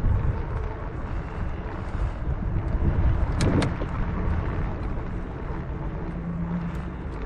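Wind buffeting the microphone over the low rumble of a bicycle being ridden, with two sharp clicks about halfway through.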